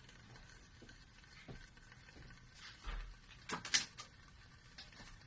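A few light, irregular knocks and clicks, the loudest a quick cluster about three and a half seconds in, with a dull thud just before it.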